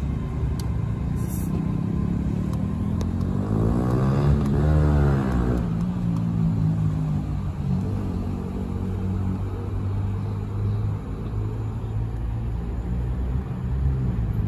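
Great Western Railway Intercity Express Train running along the line. Its noise swells to a peak about four seconds in, then settles into a steady low drone as it draws away.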